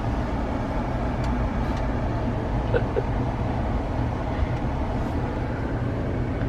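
Steady engine and road rumble heard from inside a moving vehicle's cabin, with no sudden events.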